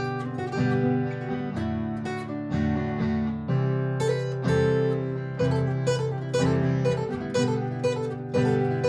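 Martin GPCPA4 acoustic guitar playing: a looped chord pattern underneath, with picked notes played over it.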